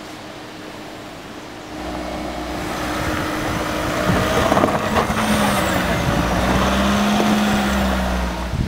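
A vehicle engine running close by, starting to be heard about two seconds in over a steady hiss of wind or water and getting louder, its pitch wavering slightly.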